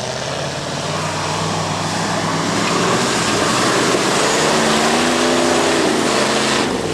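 Off-road truck engine pulling under load, getting louder over the first few seconds, over a loud rushing noise. Its note wavers up and down near the end, then the sound cuts off abruptly.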